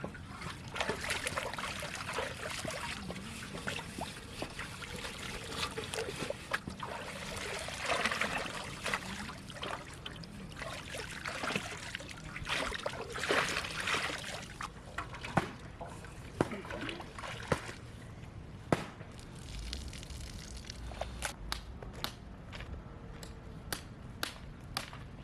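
Water sloshing and trickling, with many small clicks and knocks; these clicks become sparser and sharper in the second half.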